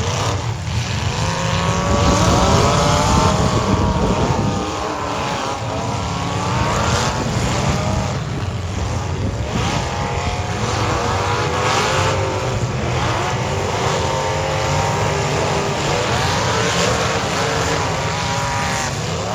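Several demolition derby car engines revving hard at once, their pitch repeatedly rising and falling, with a few short knocks of metal impacts mixed in.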